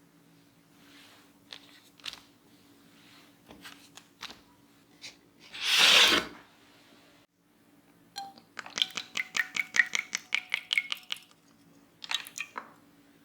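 Kitchen prep sounds from utensils and a bowl. Scattered light clicks give way to a brief louder swishing rush about six seconds in, then a quick run of utensil taps against a bowl, about six a second for some three seconds, with a faint ring.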